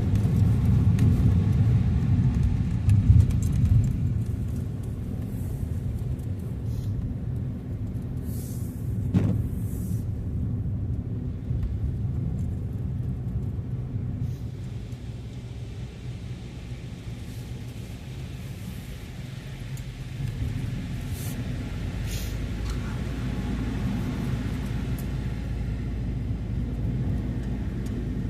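A car being driven: a steady low rumble of engine and road noise, a little louder in the first few seconds, with a short click about nine seconds in.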